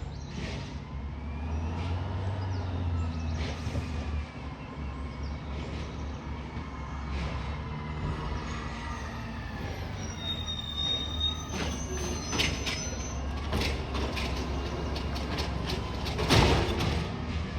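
Garbage truck engine running steadily, with whining, squealing hydraulic tones that rise and fall. Several metallic clanks come near the end, the loudest in the last seconds.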